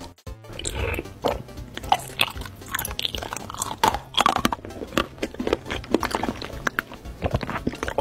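Close-up mukbang eating sounds: crunchy bites and chewing, many short crackling crunches in a steady run, over background music.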